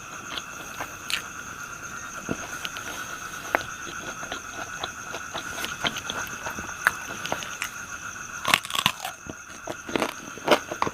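Close-up chewing and biting of crispy fried pork intestines, a run of short crunches that comes thicker near the end. A steady insect trill runs behind.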